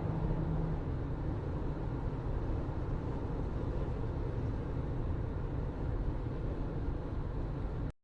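Steady low rumble of a moving vehicle, with a brief low hum just at the start; it cuts off suddenly near the end.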